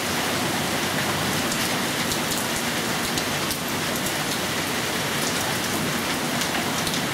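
Steady rain from a tropical-storm thunderstorm, falling without a break, with many small drops striking nearby surfaces.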